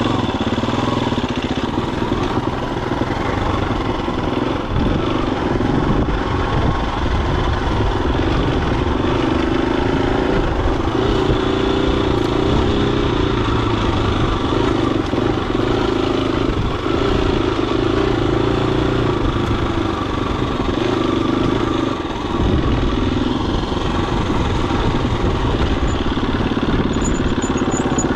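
Husqvarna FE250's single-cylinder four-stroke engine running while riding, with the engine note rising and easing as the throttle changes and a brief drop in loudness about three-quarters of the way through.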